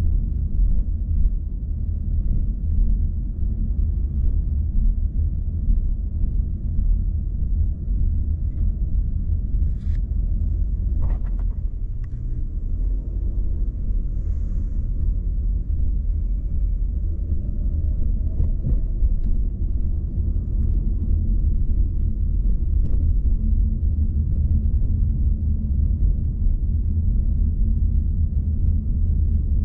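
A car being driven at steady speed: a continuous low rumble of engine and road noise, with a few faint clicks about a third of the way in.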